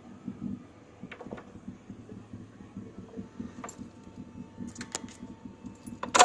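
Chevrolet 5.3L Vortec V8 out of a 2000 Silverado idling with a low, uneven pulse, settled after a rev. A few sharp clicks sound over it, and there is a loud knock near the end.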